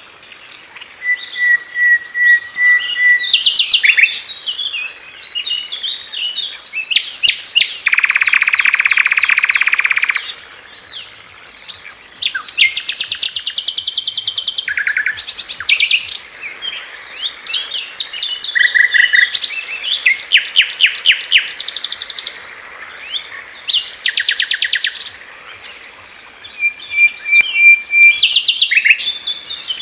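Sikatan londo singing: quick series of sharp chirps and high trills in varied phrases, with thin level whistled trills and a loud harsh buzzy rattle about a third of the way through.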